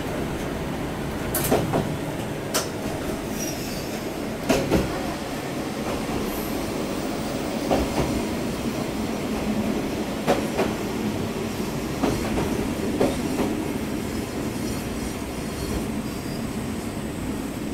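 Diesel railcar rolling slowly into its terminus on jointed track, heard from inside the cab. A steady running rumble is broken every couple of seconds by clacks, mostly in pairs, as the wheels cross rail joints, with some faint wheel squeal.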